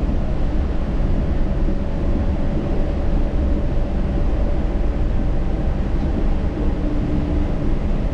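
Yurikamome rubber-tyred automated guideway train running, a steady low rumble with a faint held whine that fades out about halfway through.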